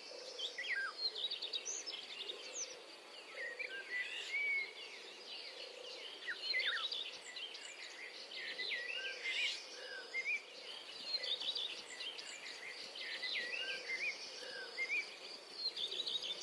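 Several small birds chirping and singing, with many short rising and falling calls overlapping, over a faint steady background hum.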